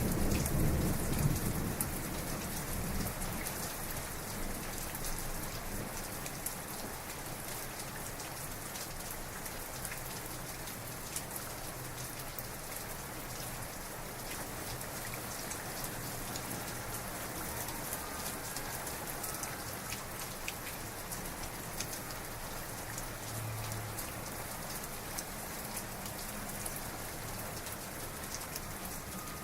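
Heavy rain falling steadily, a dense hiss with scattered sharp drop ticks. The tail of a low thunder rumble dies away over the first couple of seconds.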